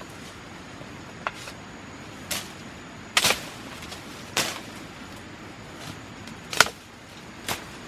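A series of sharp knocks or strikes at an irregular pace of about one a second, the loudest about three and six and a half seconds in, over a steady background hiss.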